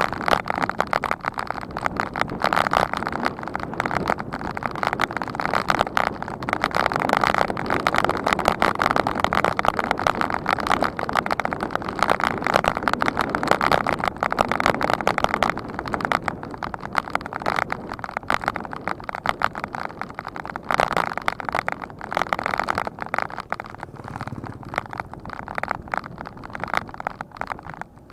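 Wind buffeting the microphone of a bicycle rider's camera while riding, a loud, steady rush with rapid flutter, easing off slightly in the last few seconds.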